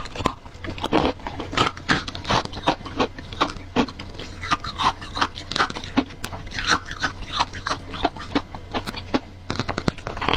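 Close-miked biting and chewing of freezer frost: dense, irregular crunches and crackles, several a second, over a steady low hum.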